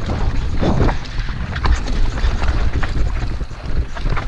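Wind buffeting the microphone of a mountain bike ride, with a low rumble and many short knocks and rattles from the bike over a rough dirt trail.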